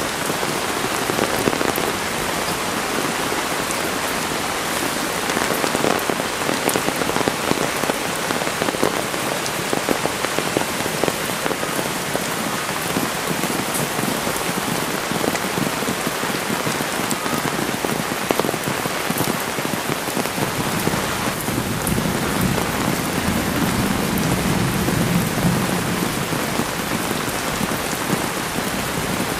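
Heavy rain pouring steadily, a dense spatter of drops hitting surfaces. A deeper low rumble swells for a few seconds after about twenty-two seconds.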